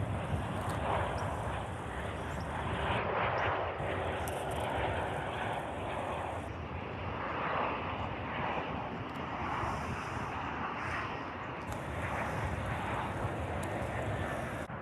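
Airliner jet engines running: a continuous rushing noise that swells and eases slightly without stopping.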